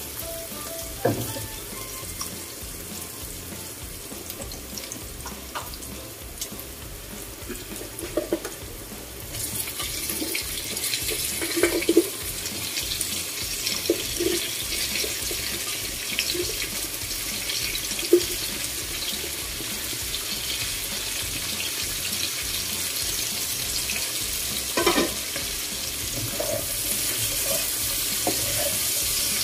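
Pork frying in a wok, with a wooden spatula knocking and scraping now and then. About ten seconds in, the cut yardlong beans go into the hot oil and a much louder, steady hiss of frying takes over.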